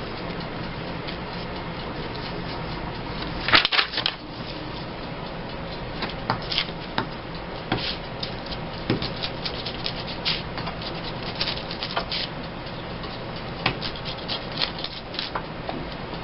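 Paper being handled and rustled during gluebook crafting, with scattered light clicks and taps and a louder crinkle about three and a half seconds in, over a steady background hum.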